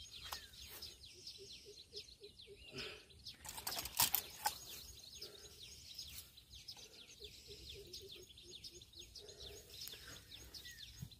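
Small birds chirping over and over in short downward-sweeping notes. About four seconds in comes a brief, louder burst of rustling and knocks.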